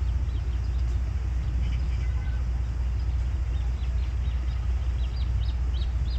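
Steady low rumble with faint, short, high bird chirps scattered over it, coming in a quick run near the end.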